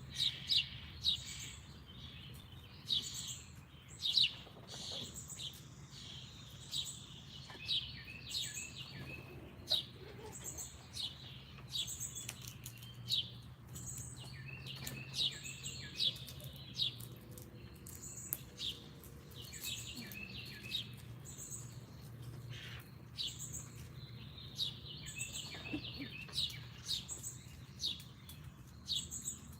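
Backyard songbirds chirping and calling near a feeder: a steady stream of short, high, down-sweeping chirps and repeated higher notes from several birds. A faint steady low hum runs underneath.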